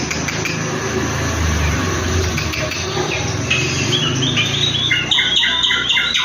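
Drongo (srigunting) calls: short chirping notes that settle about halfway into a fast, regular run of repeated notes, over a low hum.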